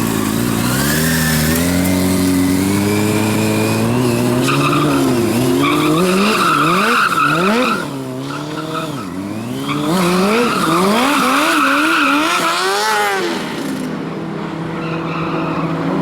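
Drift motorcycle's engine revving up and down in quick swings while the rear tyre squeals as it slides. Near the end it settles to a steadier engine note.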